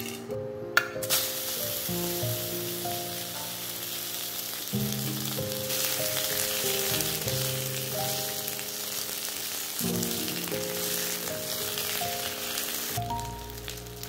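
Pork belly slices sizzling as they fry in hot oil in a wok, a steady hiss beginning with a sharp knock about a second in and stopping near the end. Background music with melodic notes plays underneath.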